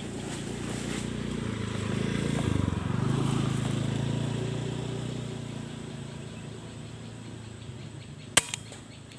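A passing vehicle's engine hum swells and then fades over several seconds. Near the end comes a single sharp crack, followed closely by a smaller knock.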